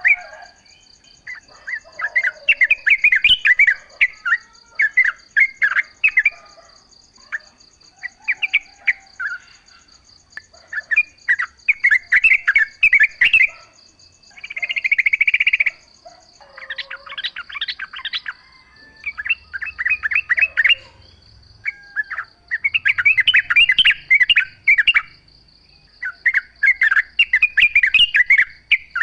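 Yellow-vented bulbuls (trucukan) singing: repeated bubbly, chattering phrases a second or two long, with short pauses between. A steady, thin, high insect buzz runs behind them.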